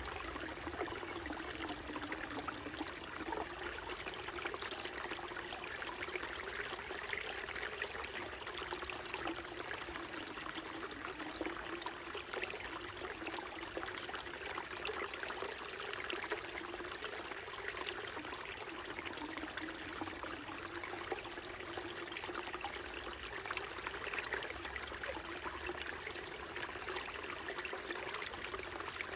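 Small mountain stream trickling and babbling over rocks, a steady flow of water with many small splashes and gurgles.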